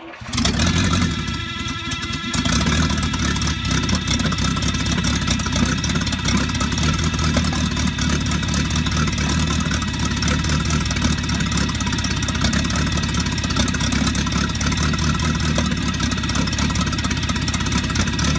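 Buick Fireball straight-eight engine running on a test stand, uneven for the first couple of seconds, then settling into a steady run.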